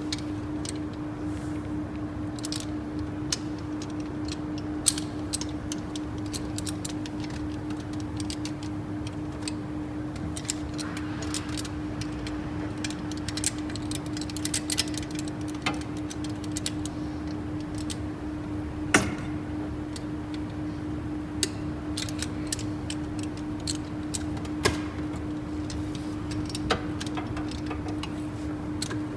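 Scattered metallic clicks and clinks of tools and parts being handled during engine disassembly, irregular and sharp, the loudest about five seconds in and near the middle, over a steady low hum.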